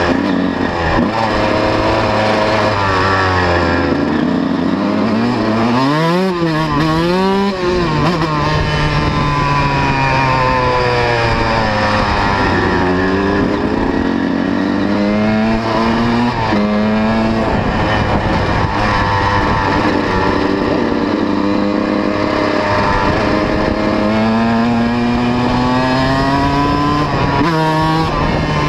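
125 cc two-stroke motocross bike being ridden, its engine revving up and falling back again and again as it goes through the gears, with quick throttle blips about six to eight seconds in.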